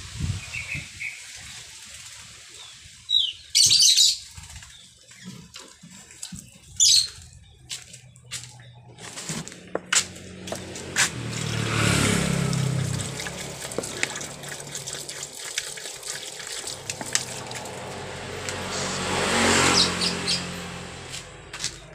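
Pet starling bathing in a water dish: its wings splash and flutter in the water, with a few short, loud, harsh calls about three and seven seconds in. A low hum swells and fades twice, near the middle and near the end.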